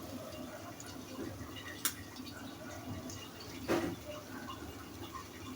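Faint dripping water in a small room, with a sharp click about two seconds in and a brief knock a little before four seconds.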